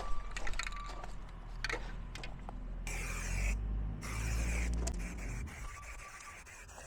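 Aerosol can of marking paint spraying a line on the ground in two hissing bursts, a short one about three seconds in and a longer one a second later, after a few light clicks.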